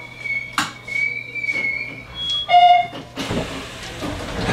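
Electronic station departure bell ringing as a steady high tone, which stops about two seconds in. A short, loud buzzer tone follows, then a rush of noise.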